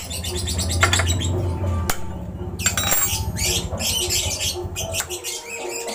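Birds chirping and squawking, with a few sharp clicks from hand tools working on a motorcycle's front brake caliper.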